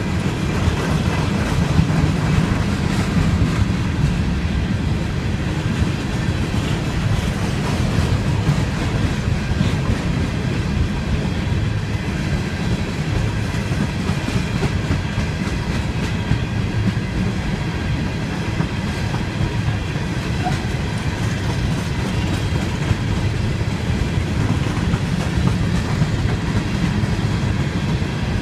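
Empty coal hopper cars of a freight train rolling past, a steady low rumble with the wheels clicking over the rail joints.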